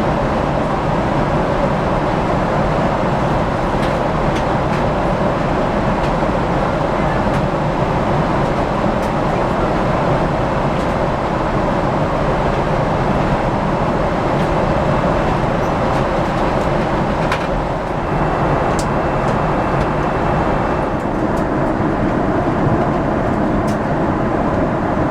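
Steady cabin noise inside a Boeing 777-300ER airliner: a constant rush of engine and airflow noise with no change in level, and a few faint clicks.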